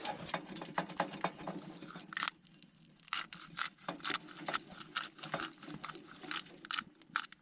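Steak frying in a pan on a wood-burning tent stove, with irregular crackling pops several times a second.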